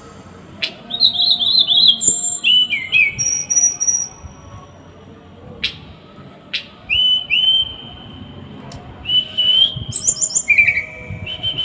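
Small songbird singing in fast, sharp phrases of the kind bird keepers call 'tembakan': sharp clicks and quick runs of repeated whistled notes, with a quieter gap of a few seconds midway.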